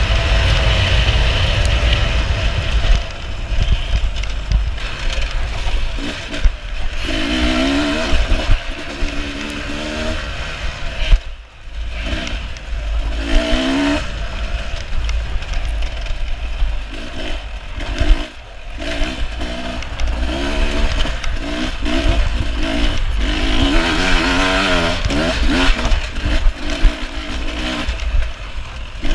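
Beta 300RR two-stroke enduro motorcycle engine revving up and down hard as the rider works the throttle, the pitch climbing and falling again and again. The engine note drops away briefly twice, about 11 and 18 seconds in, and sharp knocks break through now and then.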